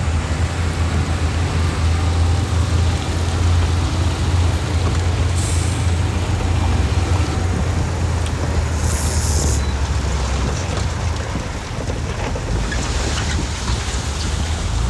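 Heavy diesel earthmoving machinery running with a steady low drone, with two short hisses about five and nine seconds in.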